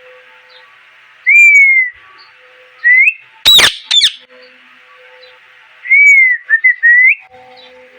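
A pet parrot whistling and calling: a falling whistled note, a short rising one, then two sharp harsh calls, then another falling whistle followed by a few quick chirps.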